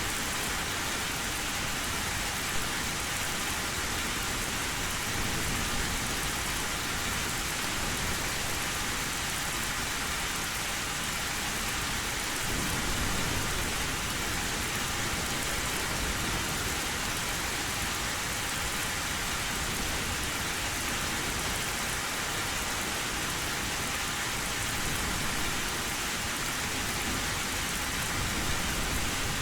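Heavy rain falling steadily on an old tin roof, with low thunder rumbling about halfway through and again near the end.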